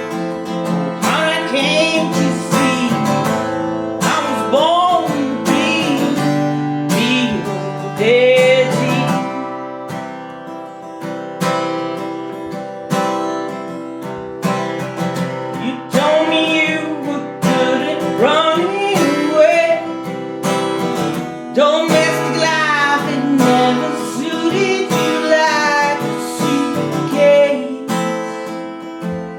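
Acoustic guitar strummed steadily, with a singing voice carrying the melody over it.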